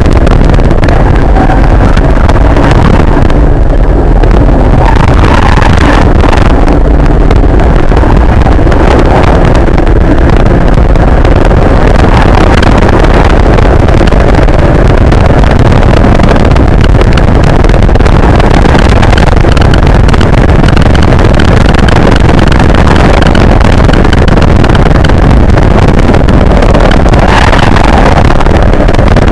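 Nissan 240SX's KA24DE 2.4-litre four-cylinder engine running hard under track driving, heard from inside the cabin mixed with road and wind noise. The recording is loud and distorted throughout.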